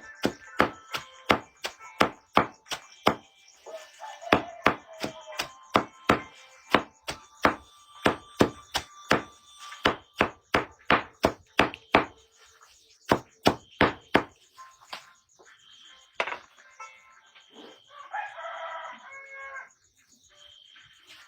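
Rapid, even chopping strikes, about two to three a second, which stop about fourteen seconds in after a few slower blows. A rooster crows near the end.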